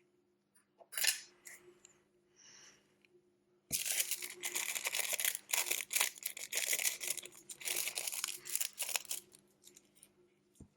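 Close-up repair work on an LG G6 smartphone: a sharp click about a second in, then about five seconds of dense scraping and crackling as tools and parts are worked at the phone, over a faint steady hum.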